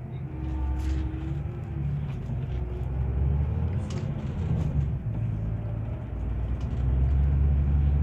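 Diesel engine of a Scania Touring HD coach running, a deep rumble that grows louder over the last couple of seconds.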